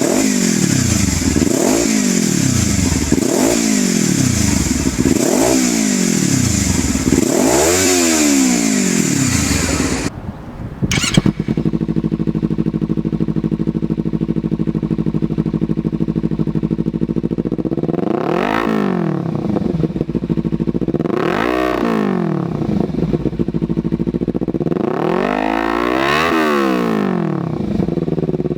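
Kawasaki Ninja 300 parallel-twin engine through an aftermarket exhaust, blipped in quick repeated revs, about six rises and falls in ten seconds. After a short drop and a click, it idles steadily and is revved three more times, each rising and falling.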